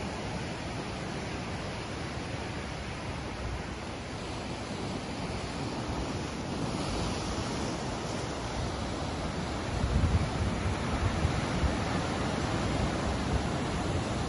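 Ocean surf: waves breaking and washing in a continuous rushing hiss, with a brighter wash about seven seconds in and a louder low rumble from about ten seconds in.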